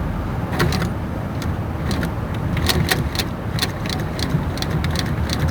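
Sewing machine stitching a dart in leather at a short stitch length: a steady motor hum with uneven, rapid clicking of the needle and feed.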